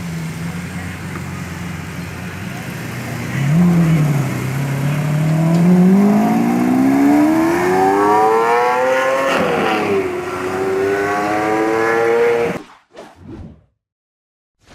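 Lamborghini Aventador's naturally aspirated V12 running, then accelerating hard: the engine note climbs steadily for several seconds, drops once at an upshift, and climbs again before the sound cuts off suddenly.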